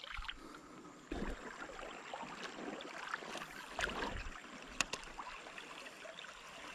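Creek water running steadily, with a few soft knocks and one sharp click about five seconds in.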